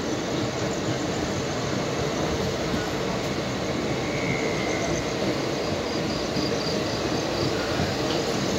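Express passenger train coach running along the rails, heard from its open door: a steady rumble of wheels on track with rushing air.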